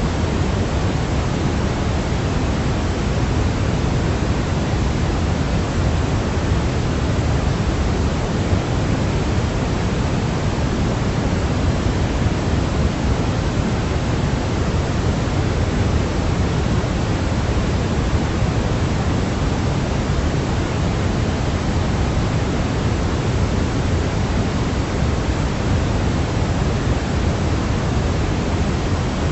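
Steady pink-type noise played as sleep sound for a baby: an even, unchanging hiss, heavier in the low end than in the highs.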